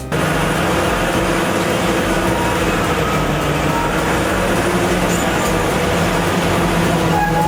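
Large diesel engine of a Komatsu PC3000 mining excavator running with a steady drone, starting abruptly right at the beginning.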